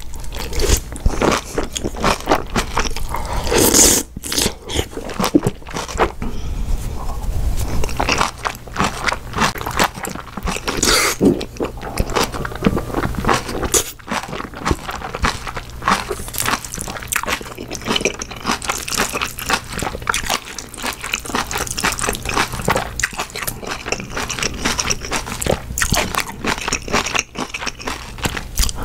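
Close-miked crunching and chewing of napa cabbage kimchi and jjapagetti black-bean noodles: many crisp, irregular crunches one after another.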